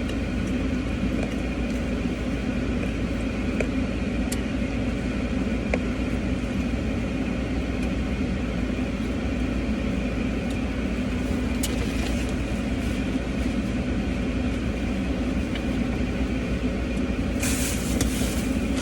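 Steady hum of a car's engine idling, heard from inside the parked car's cabin, with a few faint clicks and a brief rustle near the end.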